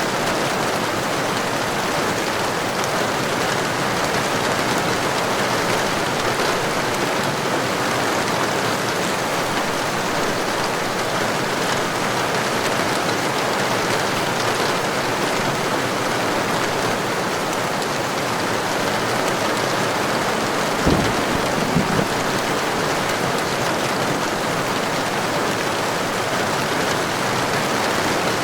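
Heavy rain falling steadily, an even rushing patter. About three quarters of the way in come two brief low thumps a second apart.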